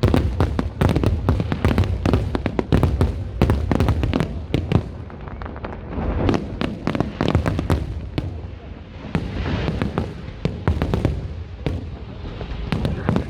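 Fireworks going off in rapid succession, a dense run of bangs and crackles. After about five seconds it thins out into scattered pops with fizzing crackle.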